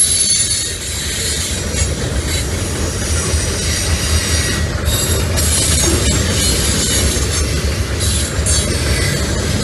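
Norfolk Southern freight train's boxcars rolling past close by: a steady rumble of steel wheels on rail, with occasional clacks over rail joints and a faint high wheel squeal.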